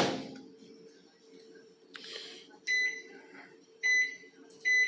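Microwave oven keypad beeping three times as buttons are pressed to set it heating, over a faint steady hum.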